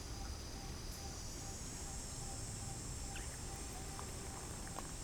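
Outdoor ambience dominated by a steady high-pitched insect drone, with a short faint note repeating about two to three times a second and low rumble underneath; a few faint clicks near the end.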